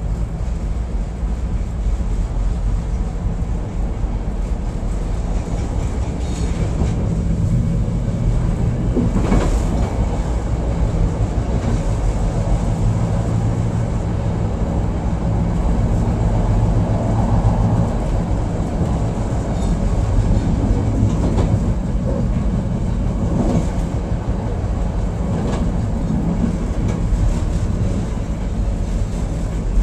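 Chicago 'L' Brown Line train running, heard from inside the front of the car: a steady low hum of motors and wheels on rail, with a few sharp clacks as the wheels pass over rail joints.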